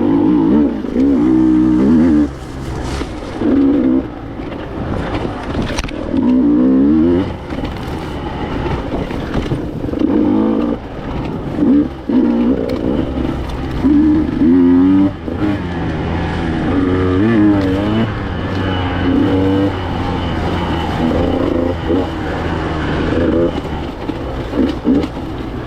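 Two-stroke enduro motorcycle engine being ridden, revving up and down over and over, its pitch climbing and falling with each burst of throttle.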